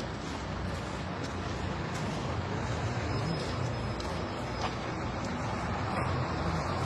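Steady low rumble of a heavy vehicle's diesel engine running, with general traffic noise and a few faint clicks.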